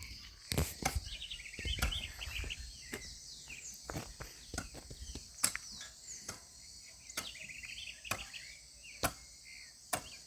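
A digging tool striking and chopping into soil at about one blow a second, as a hole is dug by hand. Birds chirp and insects buzz steadily in the background.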